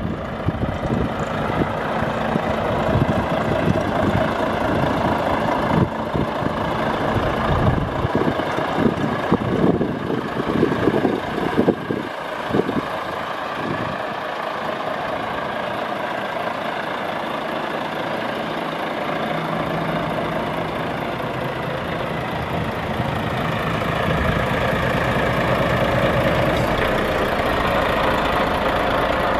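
Volvo FH500 truck's 13-litre straight-six diesel engine idling. Uneven, with irregular thumps and rumble over the first dozen seconds, then steady.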